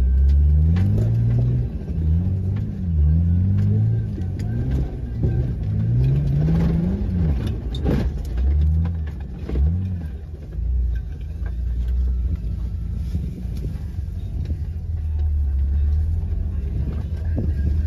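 Jeep engine running off-road, its pitch rising and falling every second or so as the throttle is worked over rough ground, then settling to a steadier run in the second half. A few sharp knocks sound about halfway through.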